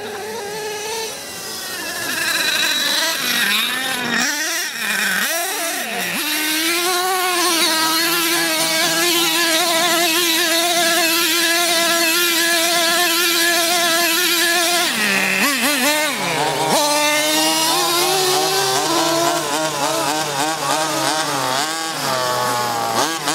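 A small, high-revving petrol engine, most likely the MCD large-scale RC monster truck's, running hard. Its pitch drops and climbs again twice, around four seconds in and again near sixteen seconds, and it holds a high, fairly steady whine in between.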